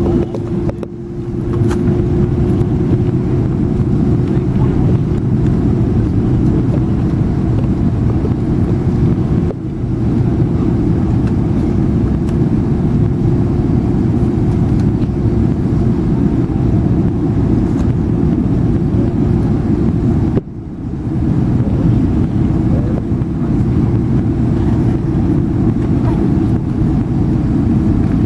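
Steady low roar of jet engines and airflow heard inside the cabin of a Boeing 767-300 on approach. A steady hum over the rumble cuts out about twenty seconds in, and the sound dips briefly three times.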